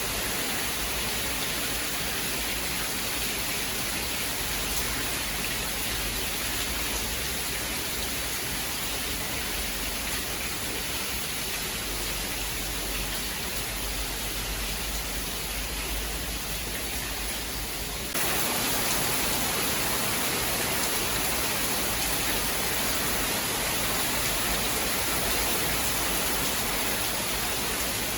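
Steady rain, an even hiss with no thunder. About two-thirds of the way through, it shifts abruptly to a slightly louder, fuller hiss.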